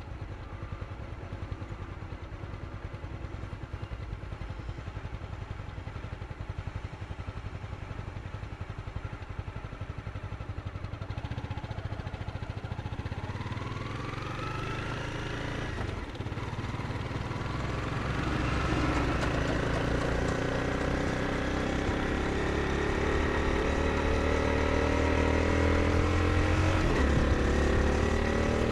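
Honda CBR 250R's single-cylinder engine under way, running steadily at first, then revving up with its pitch climbing. A little past halfway the rise breaks off briefly at an upshift, then the engine climbs again and grows louder.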